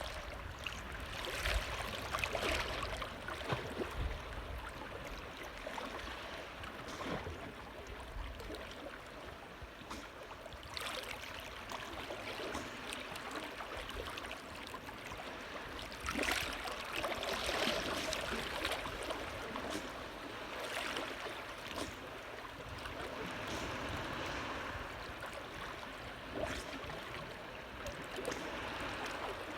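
Water lapping and trickling, a steady wash that swells and eases in gentle surges, with a few low bumps in the first few seconds.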